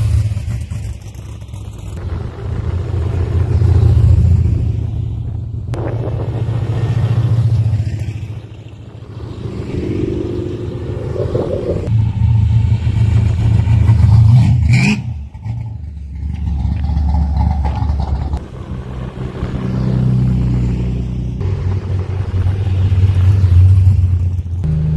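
Cars driving past one after another, their engines rumbling loudly and fading between passes. About halfway through, one engine revs up sharply.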